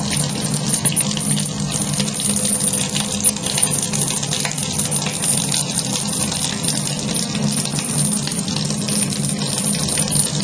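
Tap water running steadily from a faucet and splashing into a sink, with music in the background.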